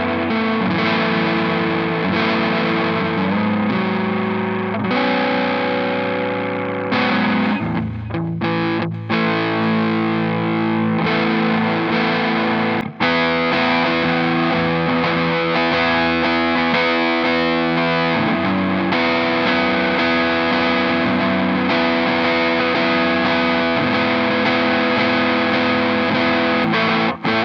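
Clifton Telecaster-style electric guitar with dual humbucker pickups played through distortion: ringing, sustained chords that change every few seconds, with brief stops about eight and thirteen seconds in.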